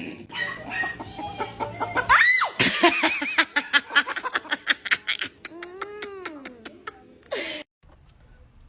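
An animal calling: a sharp rising squawk, then a fast run of short repeated notes and one long call that rises and falls, ending in a brief burst.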